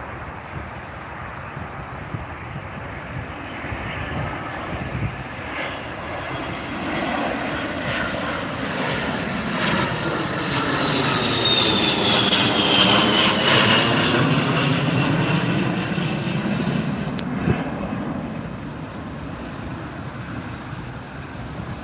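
Jet aircraft taking off and passing by: the engine noise builds, peaks about twelve seconds in, then fades, with a high whine that falls in pitch as it goes past.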